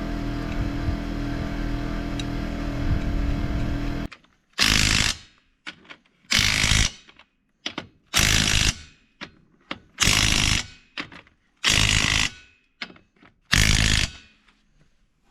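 A steady motor runs for about four seconds and stops, then a power tool fires in six short, loud bursts, about one every second and a half.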